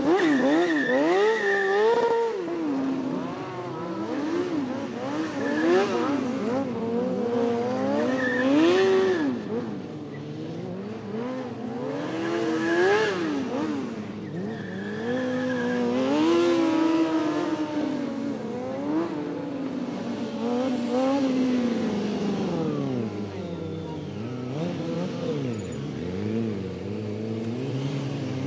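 Motorcycle engines revving, their pitch rising and falling over and over, with more than one engine running at once.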